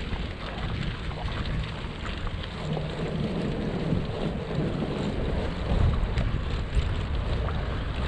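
Wind buffeting the microphone of a GoPro Hero 7 Black on a moving bicycle: a steady low rumble with a few faint clicks.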